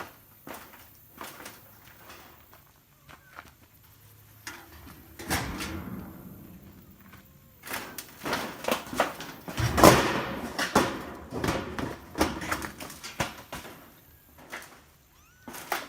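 An irregular series of sharp knocks and clatters, some in quick clusters, the loudest about ten seconds in.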